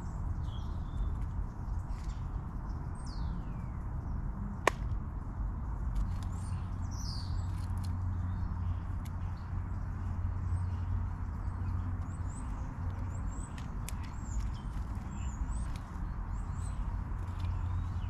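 Small garden birds chirping and calling on and off, including one falling whistle about three seconds in, over a steady low rumble. A single sharp click sounds a little under five seconds in.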